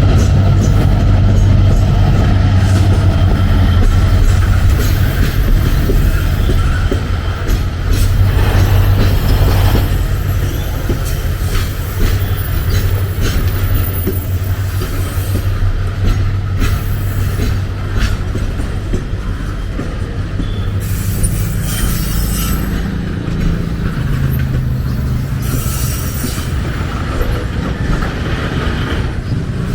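A train rolling past close by, a heavy steady rumble with its wheels clicking over the rail joints and short spells of high wheel squeal.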